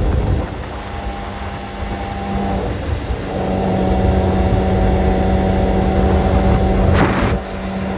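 Kawasaki sports motorcycle engine running at a steady pitch under a low rumble, with a short hiss-like burst about seven seconds in.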